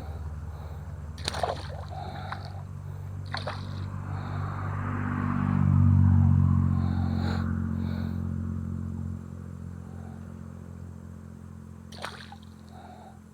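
A low engine hum that swells to its loudest about halfway through and then fades, as of a motor vehicle passing by, with a few sharp clicks over it.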